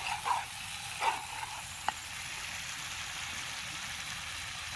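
Steady sizzle of spice masala frying in a small kadai, with a sharp tap about two seconds in.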